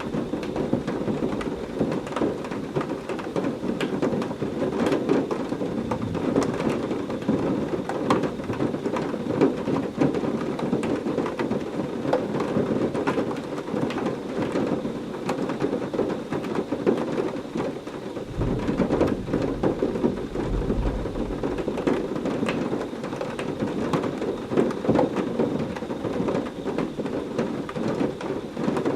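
Heavy rain falling steadily, dense with sharp close drop impacts. About two-thirds of the way through, a low roll of thunder rumbles underneath for a few seconds and fades.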